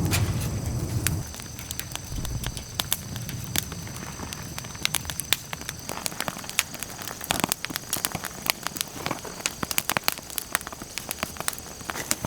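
Wood campfire crackling, with many sharp irregular pops and snaps. A low rumble is heard in about the first second and then fades out.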